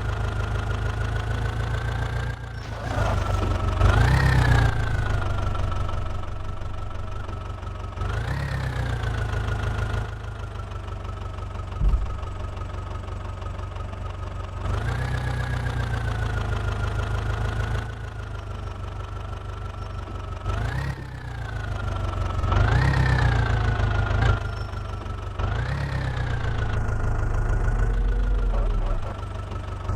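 JCB 3DX backhoe loader's diesel engine running, its revs rising and falling back several times over a steady whine.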